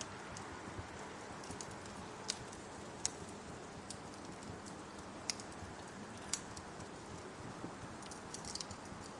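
Steady rain falling, with the sharp crackles of a wood fire popping over it: four single pops spread through the middle and a short quick burst of crackling near the end.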